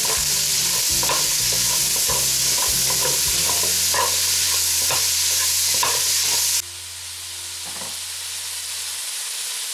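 Pork, onion and carrot sizzling as they fry in oil in a kazan, with a spatula scraping and stirring through them in repeated strokes. About two-thirds of the way in the stirring stops and the frying sizzle carries on quieter.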